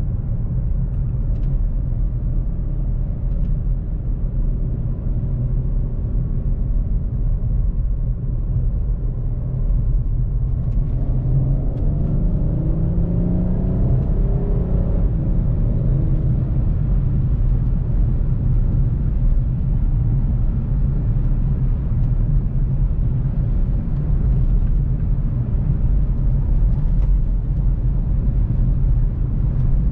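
Volkswagen CC's 3.6-litre VR6 engine and road rumble while driving. The engine note rises in pitch as the car accelerates about a third of the way in, then settles back into a steady rumble.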